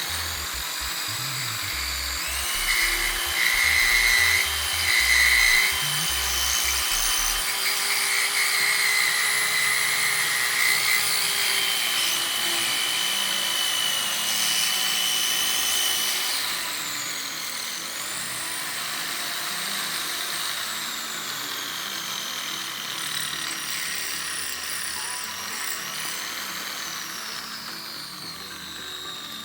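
Aegon AD602 corded electric drill running, its motor whine rising and falling in pitch as the speed changes, with background music.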